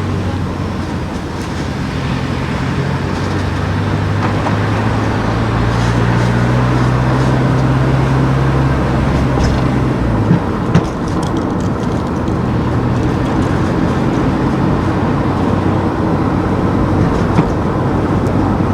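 Car driving on town streets: a steady low engine hum over tyre and road noise. About ten seconds in the engine hum drops away, followed by two sharp knocks, with another knock near the end.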